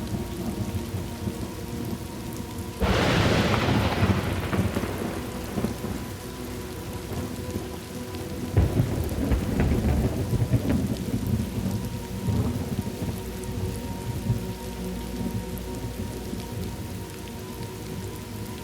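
Thunderstorm: steady rain with a sudden sharp thunderclap about three seconds in that rolls away over a few seconds, then a second, lower rumble of thunder near the middle.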